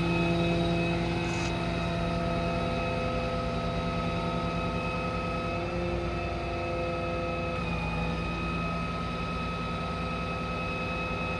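Hydraulic system of a truck-mounted Autocrane running steadily under power from the truck's engine as the crane is operated, a constant whine over the engine's drone; the tones shift slightly about eight seconds in as the crane's motion changes.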